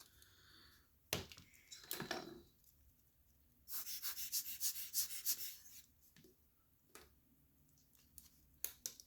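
Small metal watch parts and hand tools being handled: a few sharp clicks, then a rapid run of clicking and scraping, about six clicks a second, lasting about two seconds.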